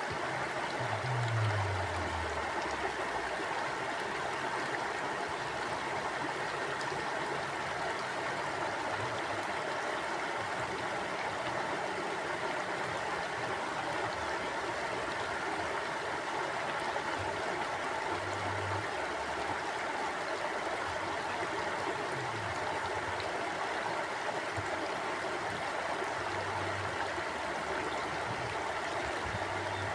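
Mountain river flowing steadily over rocks, an even rushing and gurgling of water. A few brief low rumbles come through underneath it, the strongest about a second in.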